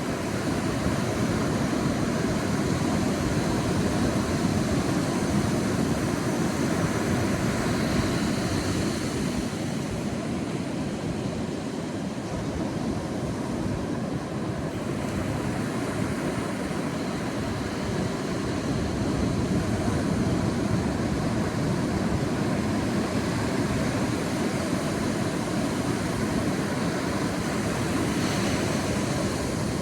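Sea waves washing onto a beach: a steady rushing surf with slow, gentle swells in loudness.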